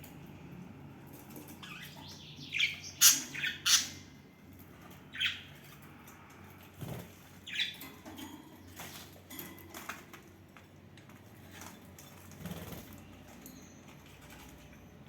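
Pet budgerigars chirping and squawking: a cluster of loud, sharp calls about three seconds in, a few more scattered after, then softer chirps.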